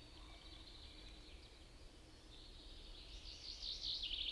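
Songbirds singing: faint high notes at first, then a fast trilled phrase that builds and is loudest near the end, over a faint low rumble.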